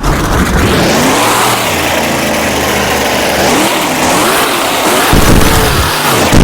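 Monster truck's supercharged V8 revving hard, its pitch rising and falling with the throttle, with heavy low rumbles coming and going about five seconds in.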